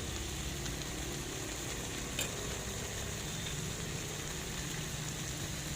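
Shredded chicken filling with tomato ketchup sizzling steadily in a frying pan, over a low steady hum, with one light click about two seconds in.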